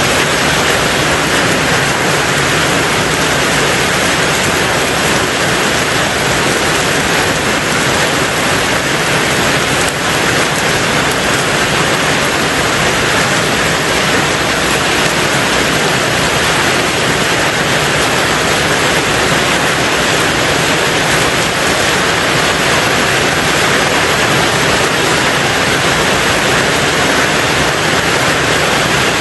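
Heavy, steady rain drumming on a tin roof, a dense, even hiss with no let-up.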